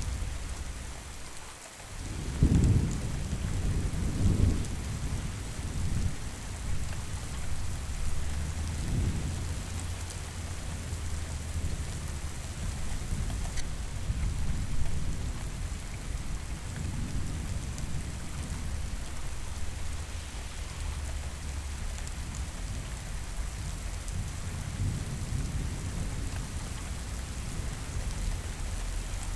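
Steady rain with rolling thunder rumbling low underneath. The rumbles swell several times, loudest about two to five seconds in, then ease to a softer rolling.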